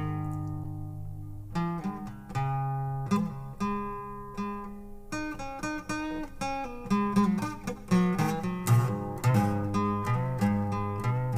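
Acoustic guitar playing an instrumental intro: chords struck and left to ring, then busier picking from about five seconds in.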